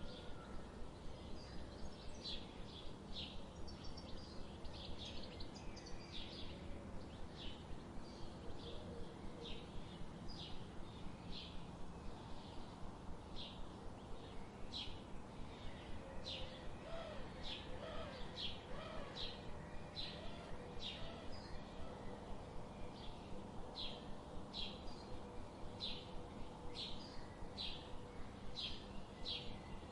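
A bird calling with short, high chirps, repeated evenly about twice a second.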